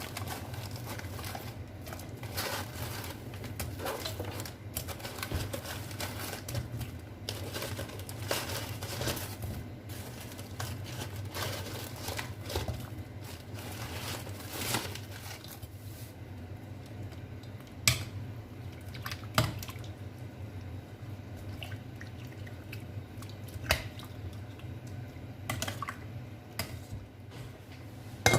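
Kitchen handling sounds: rustling and crinkling, then a few sharp clinks of pots and utensils while prawns blanch in a pot, over a steady low hum.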